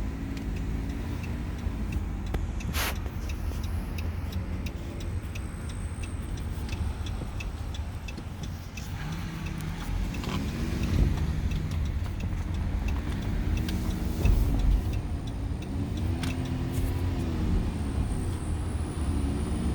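A motor vehicle driving, with a steady low rumble and an engine pitch that rises and falls several times.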